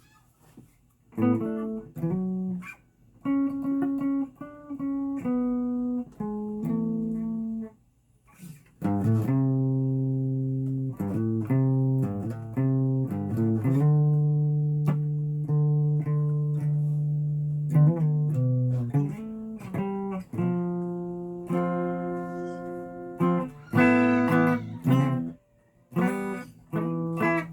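Guitar being played: single plucked notes with short pauses between phrases, then steadier playing with low notes ringing under the melody from about nine seconds in.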